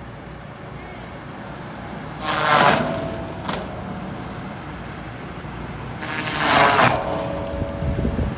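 CAT skid steer running steadily with its brush cutter attachment, with two loud bursts of splintering and grinding about two and six seconds in as the cutter bites into wood.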